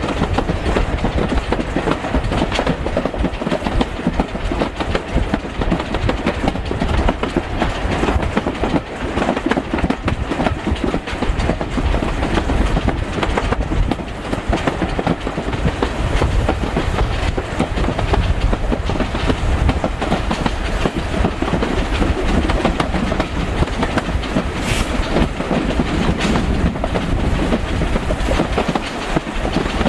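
Railway carriage running along the line: a steady low rumble with the clickety-clack of wheels passing over rail joints, heard from on board a steam-hauled train.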